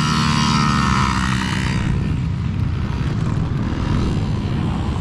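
Several kids' dirt bikes accelerating away from a race start, their engines revving high for about two seconds before the sound fades. A steady low engine noise continues underneath.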